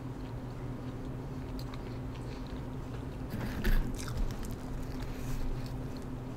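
Close-miked chewing of a mouthful of pan pizza over a low steady hum. About three and a half seconds in, a louder rustle with a thump as a hand reaches into the cardboard pizza box and pulls a slice loose.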